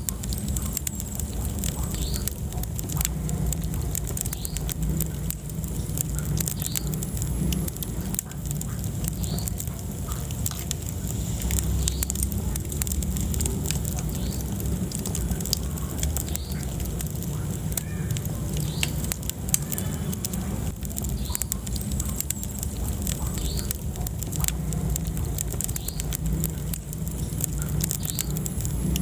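Wood fire burning in a fireplace: frequent sharp crackles and pops over a steady low rumble of flames, with short high squeaks now and then.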